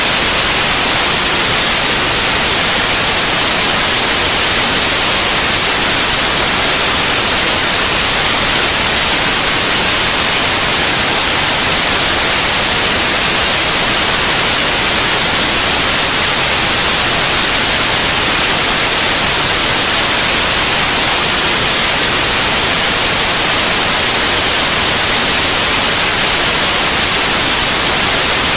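Steady synthetic white noise, a loud, unchanging hiss, played as a sleep aid for babies.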